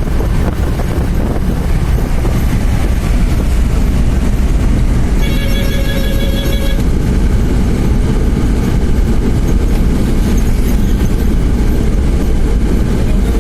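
Steady low rumble of a moving vehicle, with a single horn-like pitched tone sounding for about a second and a half near the middle.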